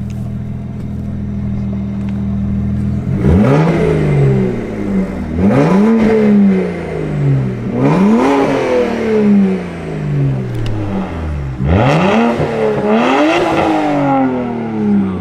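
Straight-piped BMW 135i's N54 3.0-litre twin-turbo inline-six idling, then revved hard about five times from around three seconds in, each rev climbing quickly and dropping away slowly. The turbos can be heard spooling up.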